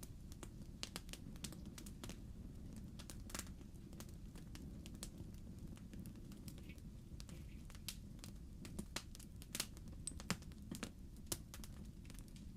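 Wood fire in a fireplace crackling: burning logs give irregular sharp pops and snaps over a steady low rumble, with a few louder pops between about 9 and 11 seconds in.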